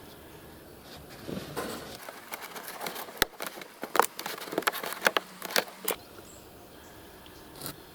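An irregular run of sharp clicks and light taps, from about a second in to about six seconds, with one more small tap near the end.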